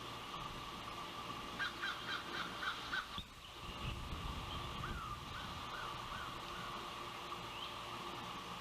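Osprey calling: a quick run of about six short whistled calls, then a few softer slurred chirps a couple of seconds later. Wind buffets the microphone between the two runs.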